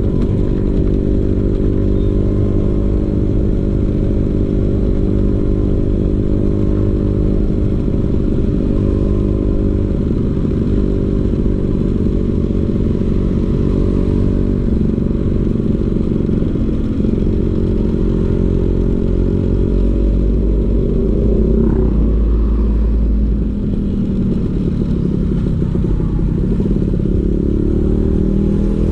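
Vespa PX 150's two-stroke single-cylinder engine running through a DRC Victory racing exhaust. The engine note holds steady for most of the time, then dips and climbs again in the last third.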